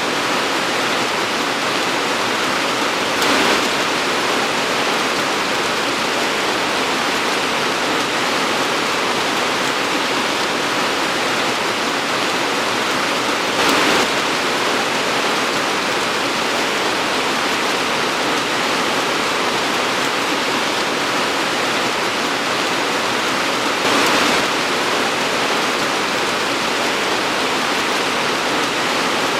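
Torrential rain pouring steadily in a dense, even hiss, with three brief louder swells about ten seconds apart.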